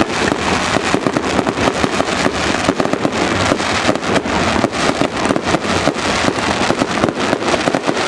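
A pack of BriSCA F1 stock cars' V8 engines running loud, their open exhausts crackling and popping continuously.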